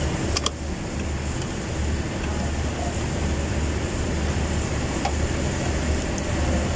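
Steady low rumble of running machinery or traffic, with a single sharp click about half a second in.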